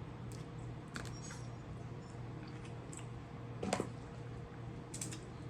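Quiet eating sounds: soft chewing and a few short, sharp clicks as seafood-boil food is eaten, the loudest click about three and a half seconds in.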